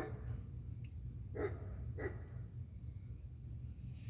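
A dog barking faintly three times, at the start and about one and a half and two seconds in, over a steady high-pitched tone.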